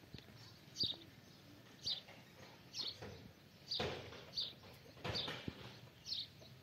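A bird calling: short, high chirps that each drop in pitch, repeated about once a second and fairly faint.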